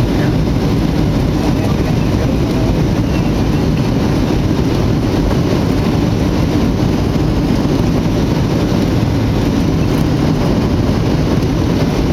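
Steady cabin noise of a Boeing 737-800 airliner on its landing approach: a loud, even rumble of engines and rushing air, heaviest in the low end.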